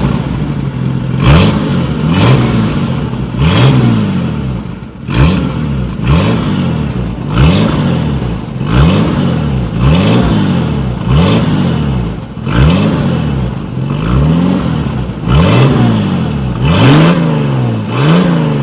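Jeep Cherokee engine revved again and again, about once a second, each blip rising and falling in pitch, through an exhaust with the catalytic converter cut out and the muffler not yet welded in, so it runs loud.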